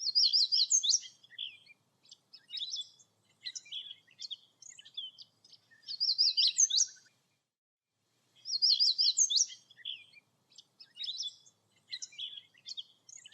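Songbird singing: a short phrase of four or five quick notes ending in a high rising note, repeated three times, with shorter chirps and calls between.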